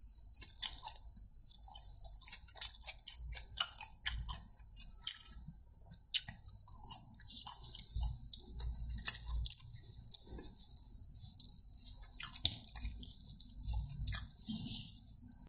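Close-miked eating sounds: chewing and biting, a dense run of sharp wet mouth clicks and crackles over soft low thuds of the jaw.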